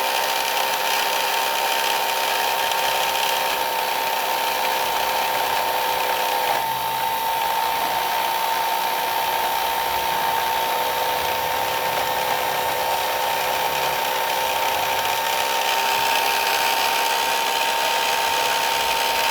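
A 775 brushed DC motor powered by a 21 V battery, running steadily at constant speed with a high, even whine.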